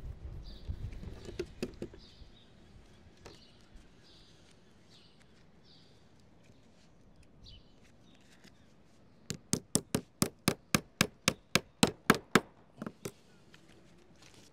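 A hammer striking repeatedly, about four sharp blows a second for some three seconds and then two more after a short pause, as lead apron flashing and its fixing clips go onto a roof. Lighter knocking and handling noise come near the start.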